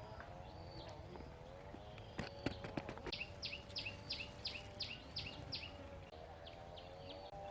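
A bird calls a quick run of about eight high, downward-sliding notes, about three a second, starting about three seconds in. Under it runs a steady, wavering hum, with a few sharp clicks just before the calls.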